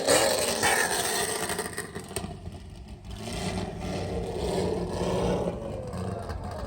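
Car engine revving, the sound dying away over the first two seconds, then engines running with a low steady drone and a smaller swell a few seconds in.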